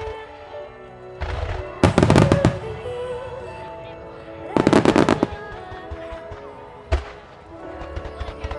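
Starmine fireworks, a rapid salvo of shells, bursting in two dense volleys of bangs, one about a second in and one around the middle, then a single bang later on. The show's music plays underneath.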